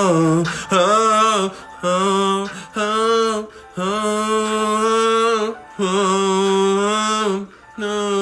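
A man singing a slow tune in long, steady held notes, about five phrases with short breaths between them.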